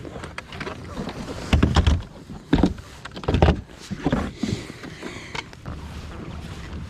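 Several heavy thumps and knocks in a fishing kayak as the fish and gear are handled, the loudest about one and a half seconds in and again around three and a half seconds.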